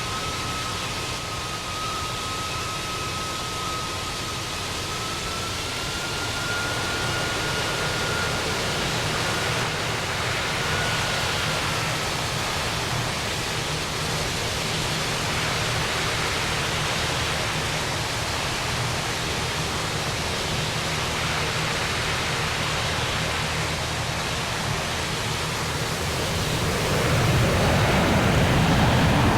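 Jet aircraft engine noise: a steady broad roar with a thin high whine that rises slightly in pitch and fades out about halfway through. The roar grows louder near the end.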